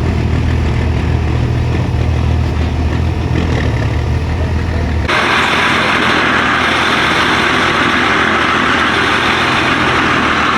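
Truck engine running on a chassis dyno: a low, steady engine note for about five seconds, then an abrupt change to a louder, broad rushing noise.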